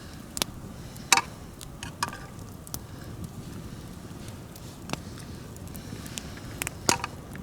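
Wood campfire crackling, with irregular sharp pops, about six over several seconds, over a low steady background.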